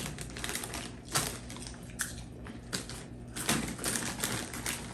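Irregular crisp clicks and crackles of someone chewing crunchy snacks close to the microphone.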